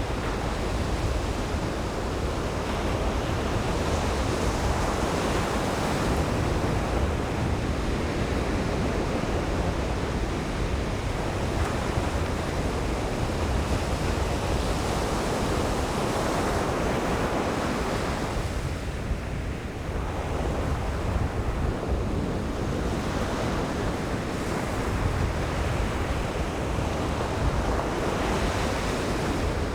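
Ocean surf breaking and washing on a beach, a continuous rush of waves with low rumble, with some wind buffeting the microphone.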